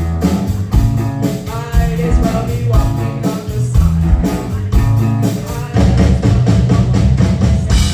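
Live rock band playing a song with drums, electric guitar and bass under a sung lead vocal, ending near the end on a cymbal crash.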